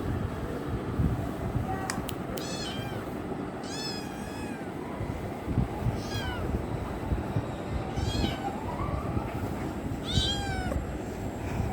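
Kitten meowing repeatedly, about five high-pitched, arching meows roughly two seconds apart, over a steady low rumble.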